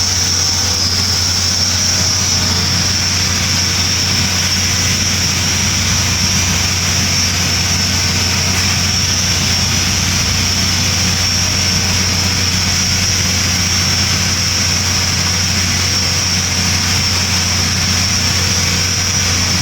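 A steady mechanical drone: a low hum with a high whine on top, unchanging in level or pitch.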